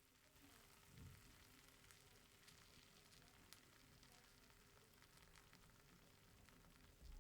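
Eggs frying faintly in a pan: a quiet sizzle with scattered small pops and crackles. A low thump comes about a second in and another near the end.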